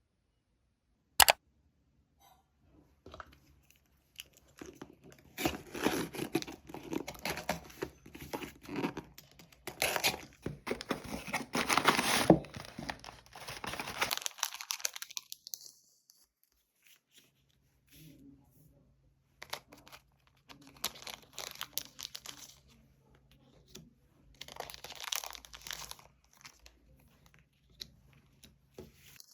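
Parcel packaging being torn open and crinkled by hand. A sharp click comes about a second in, then a long stretch of tearing and rustling, and a few shorter, quieter bursts later.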